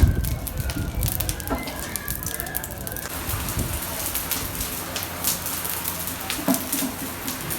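Steady sizzling hiss and crackle of cooking, thickening about three seconds in. It is dotted with many small sharp pops.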